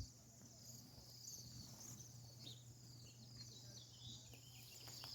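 A dense, faint chorus of many small birds in a tree, all chirping at once in short, high, overlapping chirps over a steady low hum.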